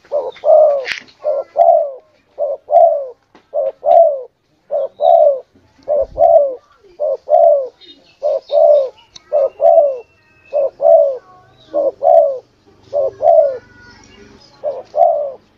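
Spotted dove cooing: a steady string of short, falling coos, mostly in pairs, about three notes every two seconds, starting abruptly. Faint chirps of other small birds sound in the background.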